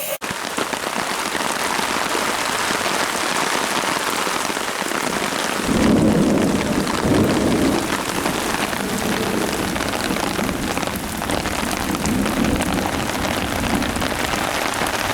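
Heavy rain falling steadily, a dense hiss throughout. A deep rumble joins about six seconds in and carries on under the rain.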